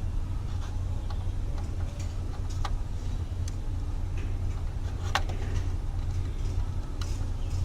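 Light, irregular clicks and taps of small tools working an instrument cluster circuit board during soldering, over a steady low hum.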